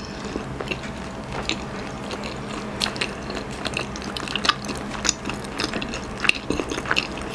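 Close-miked chewing of a mouthful of chicken pastil (rice and shredded chicken) with the mouth closed: a run of small wet clicks and smacks, several a second.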